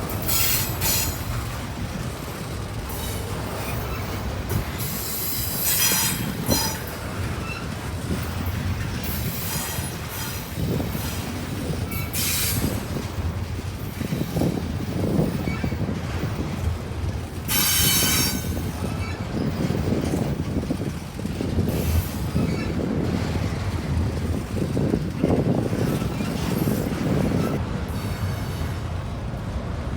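Cars of a freight intermodal train rolling past with a steady rumble of wheels on rail. High wheel squeals break out several times, each lasting about a second.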